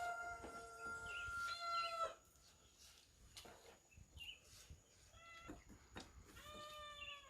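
Rooster crowing: one long call with a held note in the first two seconds, then shorter, fainter calls near the end.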